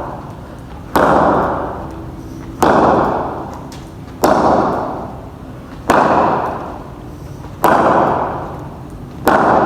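Cricket bat striking a hard cricket ball six times at a steady pace, about one crack every one and a half seconds, each crack trailing off over about a second.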